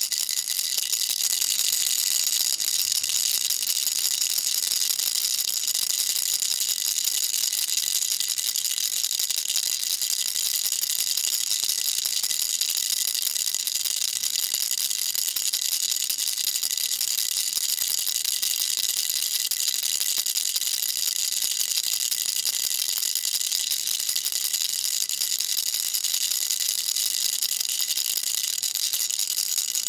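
Baby rattle shaken without pause: a steady, dense, high-pitched rattling.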